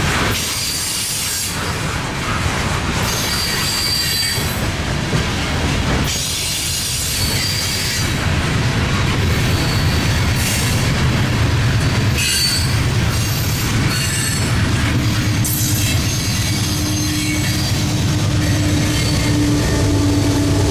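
Freight train cars rolling past, with a steady rumble and clatter and short, high wheel squeals coming and going. About fifteen seconds in, a steady low drone joins in.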